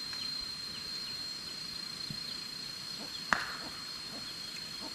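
Birds chirping outdoors in short falling calls over a steady high-pitched hum, with one sharp knock a little past three seconds in.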